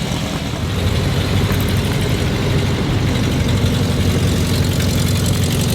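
An old car's engine running with a steady low rumble, getting a little louder about a second in.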